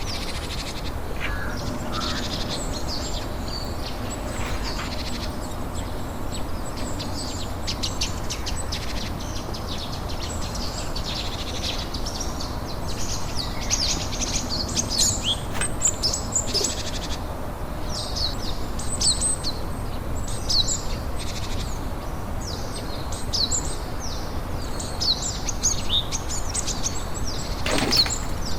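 Birds chirping: many short, high-pitched chirps in quick runs throughout, over a steady background hiss.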